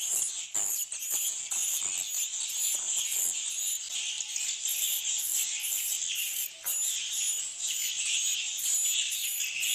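Dense, continuous twittering of many edible-nest swiftlets inside a swiftlet house, high-pitched and pulsing evenly about two to three times a second, with scattered short clicks.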